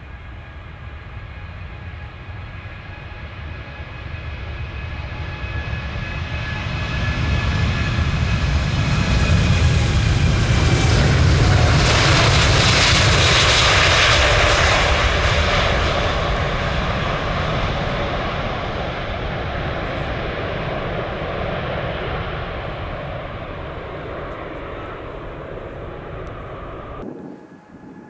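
Jet airliner flying past: its engine noise swells to a loud peak about halfway through, with a whine falling in pitch as it nears, then fades away. The sound cuts off abruptly near the end.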